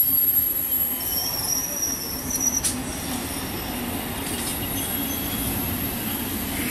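Suburban electric multiple unit (EMU) train passing close by: a steady rumble of its wheels on the rails, with a thin high wheel squeal for a second or two near the start and one sharp click about halfway through.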